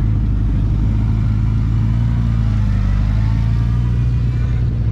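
A motorcycle engine running steadily close by, a loud, even low rumble that holds its pitch.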